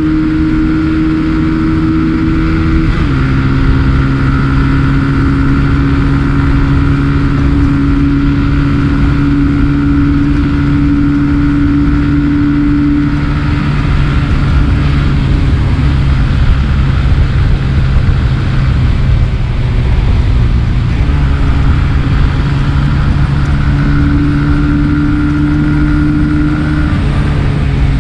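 A 150 cc scooter engine running steadily at riding speed, with heavy wind rumble on the GoPro Hero 7's foam-covered microphone. The engine note drops slightly about three seconds in and again near the end.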